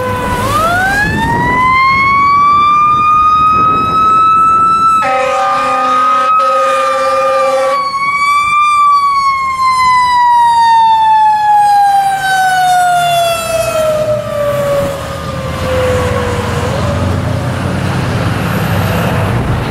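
Fire engine siren winding up to a high wail, cut across by two blasts of an air horn, then winding slowly down in a long falling tone. Truck engine and road noise remain after the siren dies away near the end.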